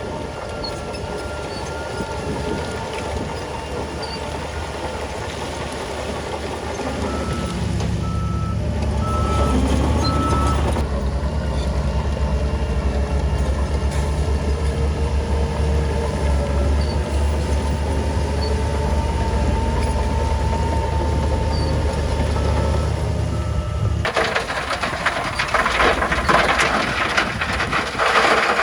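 Heavy diesel earthmoving machinery running under load, with a reversing alarm beeping a little more than once a second for a few seconds at a time. About four seconds before the end, a loud crackling rush takes over.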